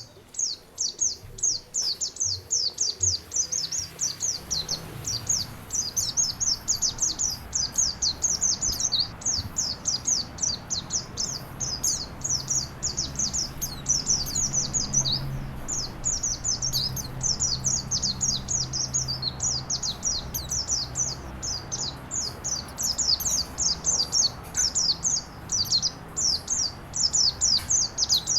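A songbird chirping rapidly and without pause, a dense string of short, high, downward-sweeping notes several a second, over a faint even hiss of running water.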